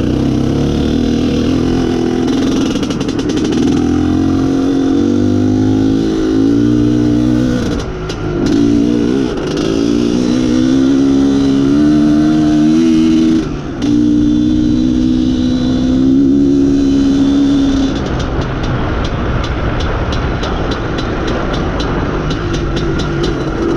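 IZh Planeta Sport motorcycle's single-cylinder two-stroke engine running under way, its pitch rising and falling, with brief drops in revs about eight and fourteen seconds in. After about eighteen seconds it runs lower and quieter. The owner feels a very lean mixture at high revs, with a 1.3 main jet fitted.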